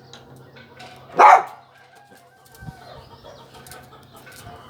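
A single short, loud animal call about a second in, over a faint steady low hum.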